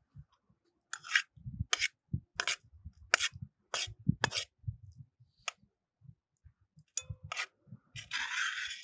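A person chewing food with the mouth close to the microphone: a regular run of crisp clicks about every 0.7 s over soft low thuds, ending in a short rustling hiss.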